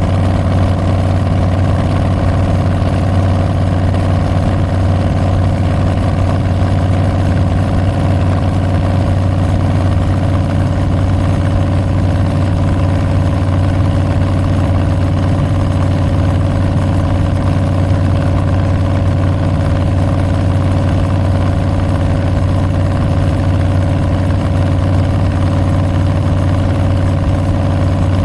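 2022 Harley-Davidson Street Bob's Milwaukee-Eight 114 V-twin running through Tabs Performance slip-on mufflers with Zombie baffles, holding a steady engine speed with no revving.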